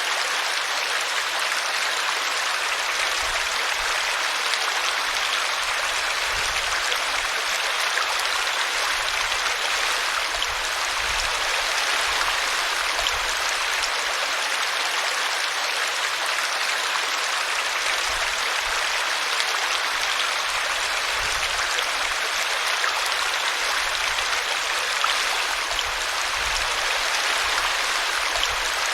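A small brook flowing over a tree root, its water rushing steadily and evenly.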